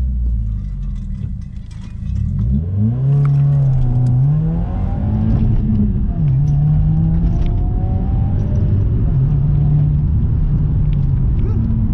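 Subaru WRX's turbocharged flat-four running through a newly fitted cat-back exhaust: low and even at first, then brought up about two and a half seconds in and held at raised engine speed, the pitch stepping up and down.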